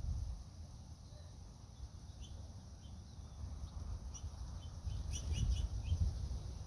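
Wind buffeting the microphone with a low rumble, and small birds giving a run of short, high chirps that come thickest about five to six seconds in.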